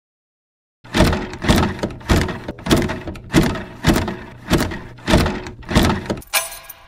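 A steady series of heavy thuds or knocks, about one every 0.6 seconds, starting about a second in; near the end they give way to lighter, ringing strikes.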